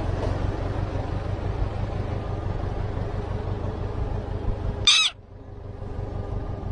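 Steady low rumble of background noise, then one short, sharp bird call about five seconds in. Right after the call the rumble drops away abruptly.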